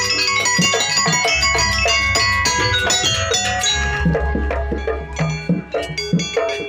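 Traditional Banyuwangi dance-accompaniment music: ringing metal percussion and drums played together, thinning to separate drum strokes with short pitch bends about four seconds in.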